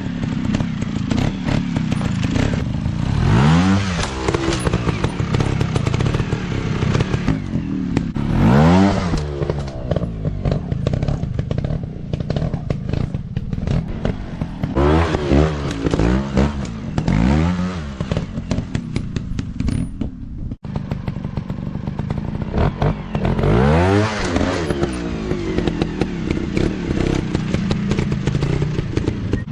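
Dirt bike engines revving hard in repeated bursts, pitch climbing and falling every few seconds, with clattering and scraping. The sound cuts out for an instant about two-thirds of the way through.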